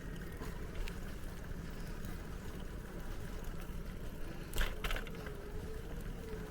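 Steady low rumble of a bicycle ride, tyres rolling with wind on the microphone. About four and a half seconds in come two sharp rattling clicks, and a faint steady hum starts just before them.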